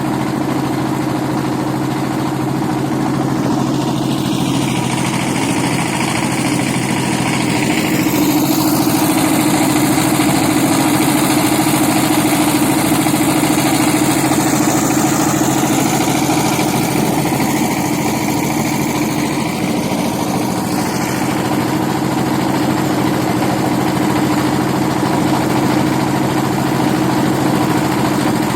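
Boat engine running steadily at an even speed, with a constant hum under a shifting hiss.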